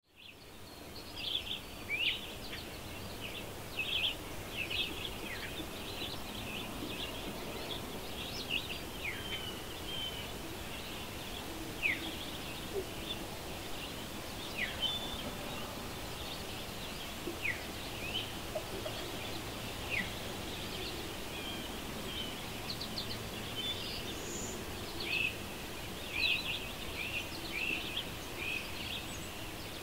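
Songbirds chirping and singing: many short high notes and quick downward-sliding calls, scattered throughout over a steady low background hum.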